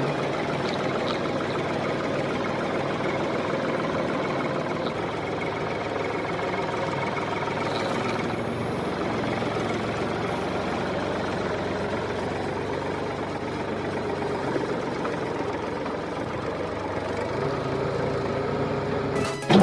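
A small motor running steadily, driving the miniature tractor's post hole digger machinery.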